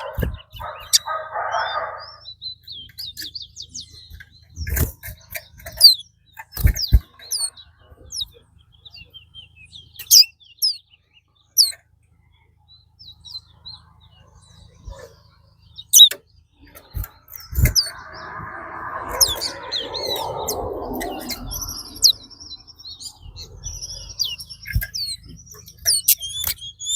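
Caged racing songbirds chirping and calling in short, scattered bursts, with several sharp clicks between them. Low voices murmur briefly near the start and again about two-thirds of the way in.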